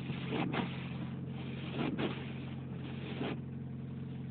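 1990 Honda Accord's four-cylinder engine idling steadily, heard from inside the cabin, with the windshield wipers sweeping about every second and a half.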